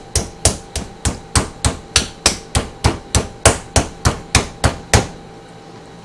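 Meat cleaver striking butterflied raw chicken breasts to flatten them: quick, even blows about three a second that stop about five seconds in.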